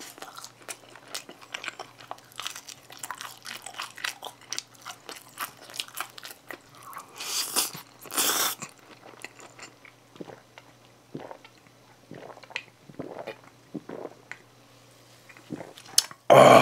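Close-miked chewing and biting of pizza and spaghetti, with many small wet mouth clicks, and two louder slurps of spaghetti about seven and eight seconds in. A sudden loud sound cuts in at the very end.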